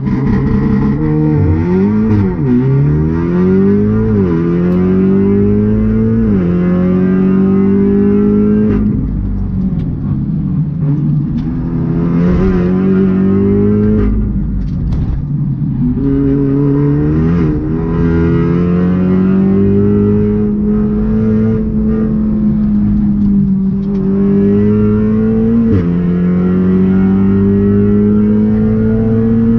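Turbocharged four-cylinder engine of a Stage 3 tuned Audi S3 (EA888 Gen 3 with a hybrid IS38 turbo) driven hard on track. Its pitch climbs steadily through each gear and falls sharply at each gear change, several times over, with brief lifts in between.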